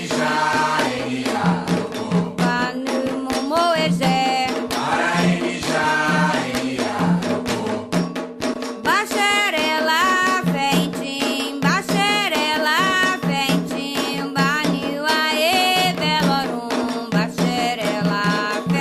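Candomblé ponto for Xangô: voices singing a chant over steady hand-drum and rattle percussion.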